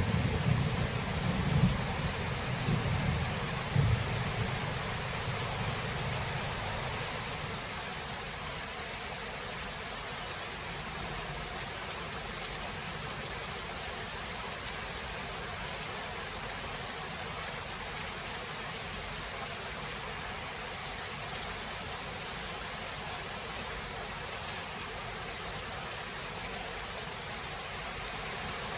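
Thunder rumbling over steady rain, with a couple of louder swells in the first few seconds before the rumble dies away. The rain then goes on alone as an even hiss.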